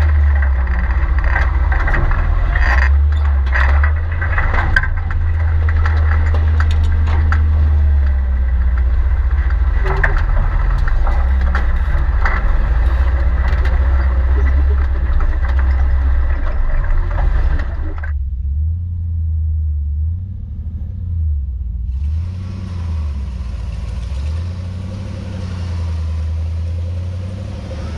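Off-road tow truck's engine running, its low rumble rising and falling with the throttle. The sound changes abruptly twice, at about 18 and 22 seconds in.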